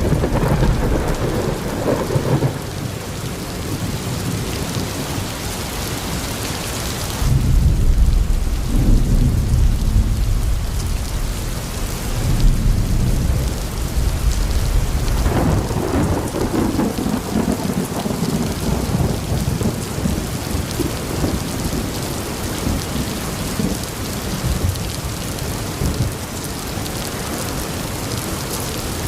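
Thunderstorm: steady rain with rolling thunder. The loudest rumble starts suddenly about seven seconds in and lasts several seconds, and another rolls in about halfway through.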